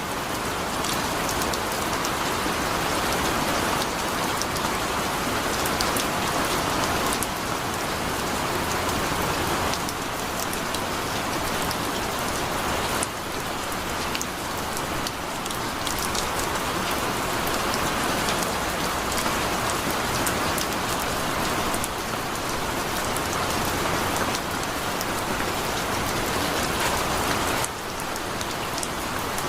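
Heavy rain falling steadily, a dense even hiss with sharp ticks of single drops mixed through it.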